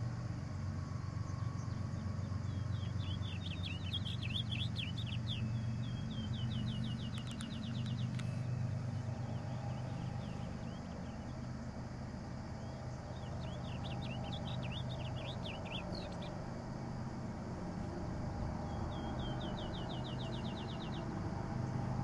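Songbirds singing in four short phrases, two of them ending in fast, even trills, over a steady low rumble.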